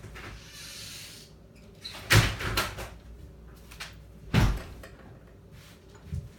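A door banging: two loud bangs a little over two seconds apart, with lighter knocks between and near the end.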